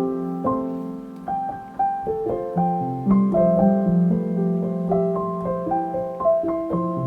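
Background music: gentle solo piano playing a slow melody over held chords.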